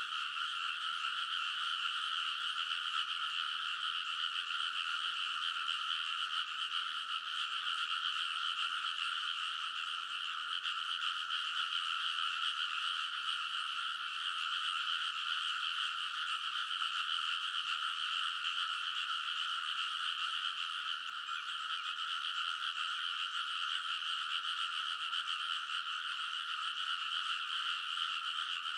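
A big chorus of frogs calling in rice paddies: many overlapping calls merge into one continuous, unbroken din.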